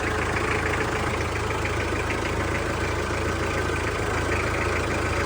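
A motor running steadily with a low hum and a fast, even pulsing.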